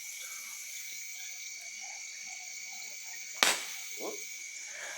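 Steady chorus of night insects and frogs, a few even high tones held throughout, with one sharp bang about three and a half seconds in.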